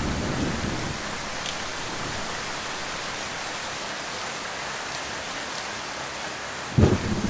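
Heavy rain falling steadily, an even hiss. A low rumble of thunder dies away in the first moments, and a sudden loud clap of thunder breaks in near the end.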